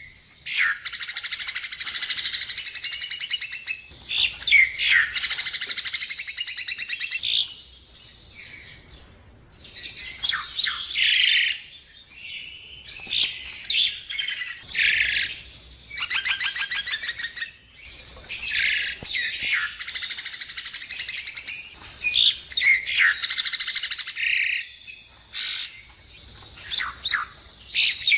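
Javan myna (jalak kebo) singing: long runs of rapid, high-pitched chattering phrases and rattling trills, broken by brief pauses.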